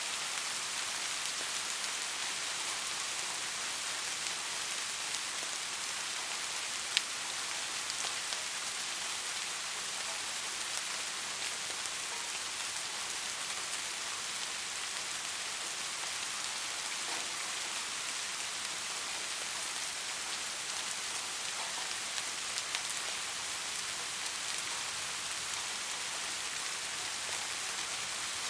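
Steady rain falling, an even hiss with scattered drops ticking through it and one sharper drop about seven seconds in.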